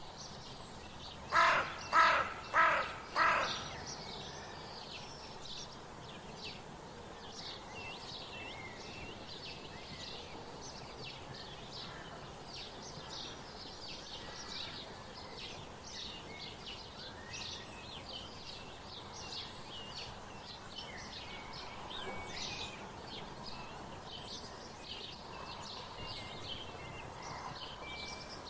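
Wild birds calling: many small birds chirp in quick, high notes throughout. About a second and a half in, a larger bird gives four loud, harsh calls in quick succession.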